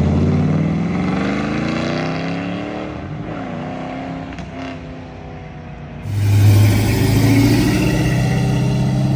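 A car engine accelerating away, its pitch rising over the first few seconds as it pulls off and fades. About six seconds in, another car engine comes in suddenly much louder and runs steadily.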